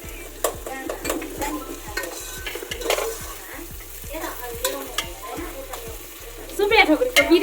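Onions sizzling as they fry in oil in a large pot, stirred with a spoon that clicks and scrapes against the pot.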